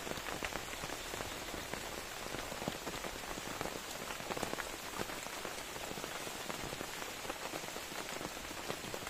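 Steady heavy rain, with many individual drops striking close by as dense, irregular ticks.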